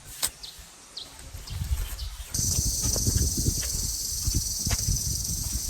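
Rural outdoor ambience: a few short, high bird chirps and irregular low thumps, like footsteps. About two seconds in, a steady high-pitched hiss sets in abruptly and carries on.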